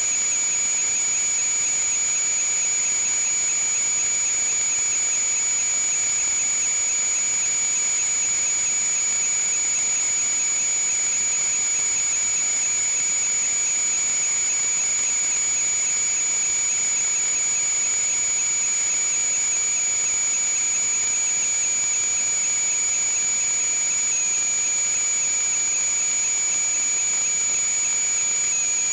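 A steady high-pitched whistling tone over a hiss, holding one unchanging pitch throughout.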